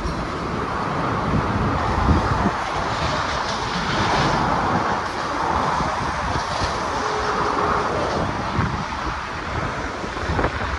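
Steady rushing, rumbling noise of a train rolling past, with no horn or bell, and wind on the microphone.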